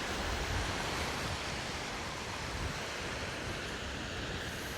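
Sea surf washing onto a beach: a steady, even hiss of waves.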